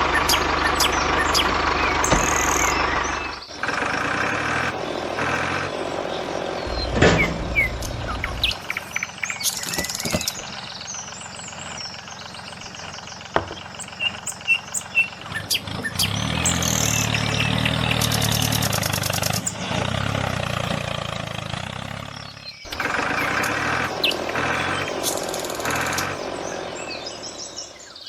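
Birds chirping outdoors over a small motor running in a low, steady hum, in several segments that cut in and out abruptly.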